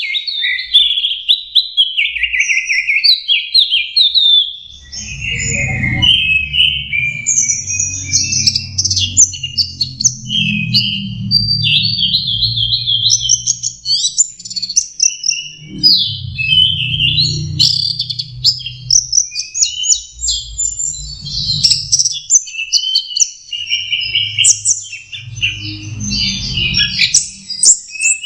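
Orange-headed thrush (anis merah) singing a long, unbroken, rapid run of varied chirps, trills and warbles: a bird practising its song. A low rumble comes and goes several times underneath.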